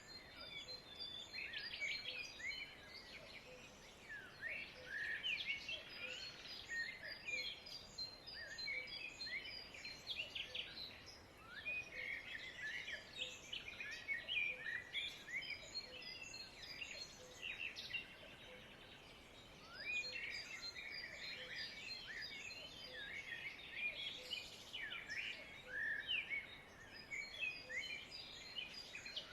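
Many birds chirping and twittering at once, a continuous chorus of short overlapping calls.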